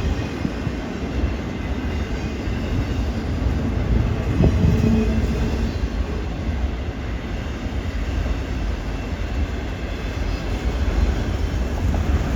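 CN freight train passing close by: a steady rumble of wheels on the rails, with a brief faint squeal about four and a half seconds in.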